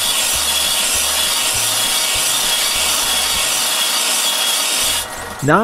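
Belt sander abrading the flat sides of a steel strip cut from an old circular-saw blade: a steady high grinding noise that stops about five seconds in.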